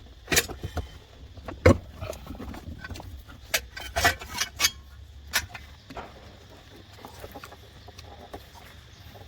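Sharp knocks and clinks of tools and car parts being handled, several in the first six seconds, then only a steady low hum.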